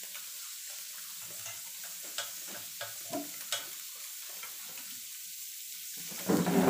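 Food sizzling in butter on a tabletop grill plate, a steady hiss with a few light clicks of forks on the plate around the middle. A much louder burst of sound comes near the end.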